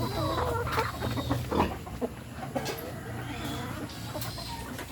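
Chickens clucking, busiest in the first two seconds and thinning out after, with a few sharp taps among the calls.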